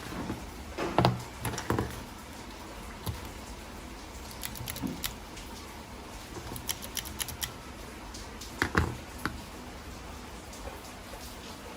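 Small hard parts and tools being handled during a repair: scattered light clicks and a few knocks, the louder ones about a second in and near nine seconds.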